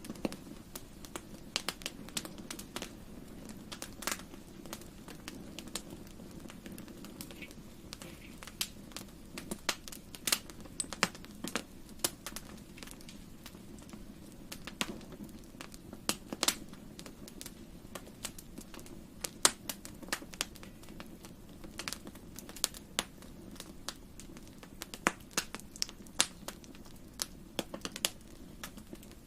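Fireplace fire crackling, with irregular sharp pops and snaps over a soft steady low rush of the flames.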